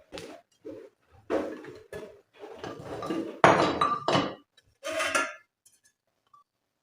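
Dishes and cutlery clattering as they are handled, in a string of short, irregular clinks and knocks that stop about a second and a half before the end.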